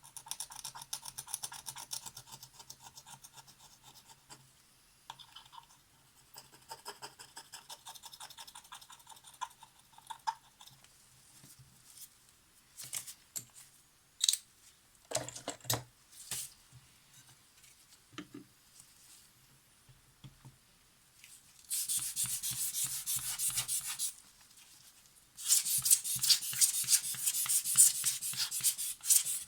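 Rapid back-and-forth rubbing on the Polaroid SX-70's mirror glass, cleaning off leftover old silicone, in spells of quick strokes that are loudest in two long bouts near the end. A few short knocks of handling fall around the middle.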